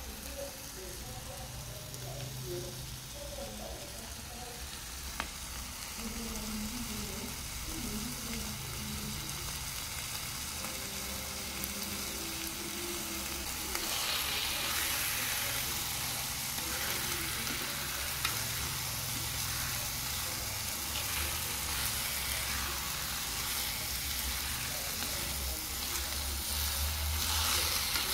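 Chopped pig liver sizzling in a frying pan over a wood fire, stirred with wooden chopsticks. The sizzle grows louder about halfway through.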